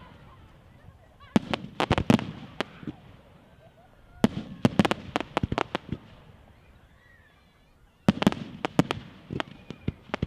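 Fireworks going off in three quick clusters of sharp cracks and bangs, about a second and a half in, around four seconds in and again near the end, with quieter gaps between.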